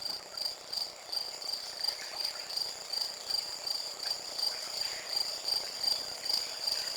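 Cricket chirping steadily, an even run of high chirps about two to three a second.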